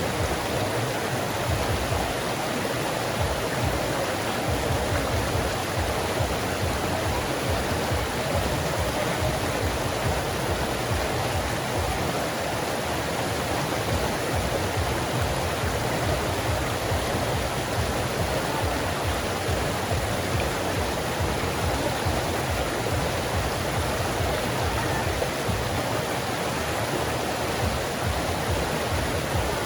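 Forest creek flowing: a steady, even rush of running water.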